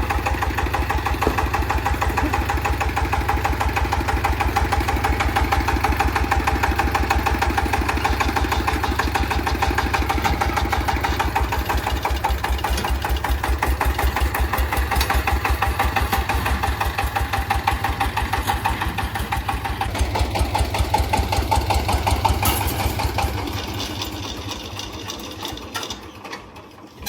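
Hand-crank-started engine running with a fast, even beat of low pulses. It dies away over the last few seconds.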